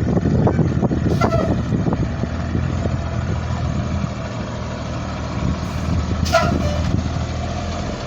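Engine of a 2001 Blue Bird All American bus running as the bus is backed up, with clattering during the first couple of seconds. A short sharp hiss comes about six seconds in.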